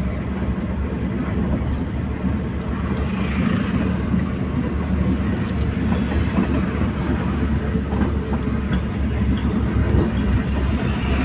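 Steady low rumble of a moving vehicle, with the even hiss of heavy rain over it.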